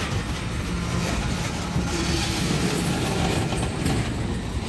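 Loaded ethanol tank cars rolling past at close range, a steady rumble of steel wheels on the rails.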